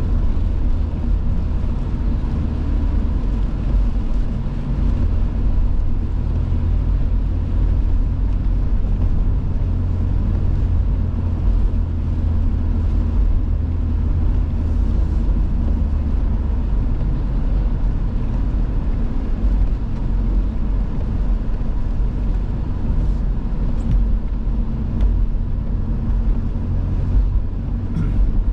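A car driving at a steady speed, heard from inside the cabin: a continuous low rumble of engine and tyre noise, with a faint steady tone above it.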